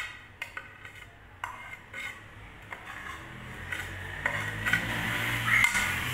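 Metal spoon clinking against a spice jar and mixing bowl as spices are spooned in, a few sharp taps in the first half. Then a longer stretch of spoon scraping and stirring in the bowl, which grows louder toward the end.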